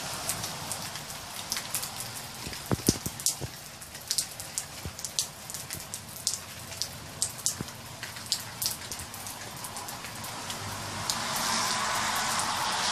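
Heavy rain pouring with a steady hiss, with many sharp splatters of single drops landing close by through the middle. The hiss swells louder near the end.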